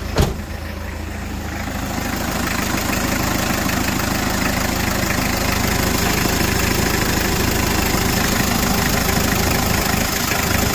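Hyundai Starex's D4BB four-cylinder diesel engine idling steadily, getting louder over the first couple of seconds and then holding even. A sharp click comes just after the start.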